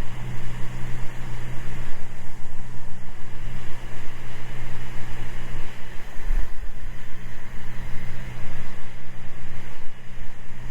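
Steady drone of a Cessna 206 Stationair's six-cylinder piston engine and propeller heard inside the cabin, an even low hum with a wash of wind noise, at power reduced for the descent.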